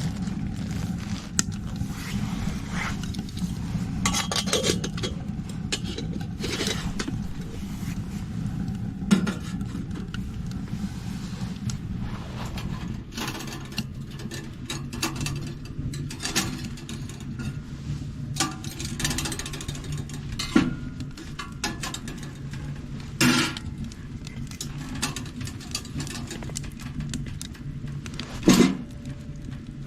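A steady low hum under scattered clicks and knocks of small items being handled, a few of them louder and sharper, about 9, 20, 23 and 28 seconds in.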